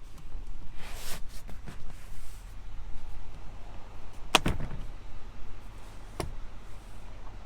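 A pickup truck's door shut with one solid thud about four and a half seconds in, followed by a lighter click about two seconds later; a brief rustle comes before it, about a second in.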